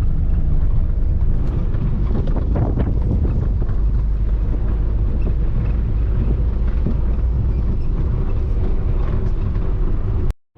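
A vehicle on the move: a steady low engine and road rumble, with wind buffeting the microphone. The sound cuts out abruptly near the end.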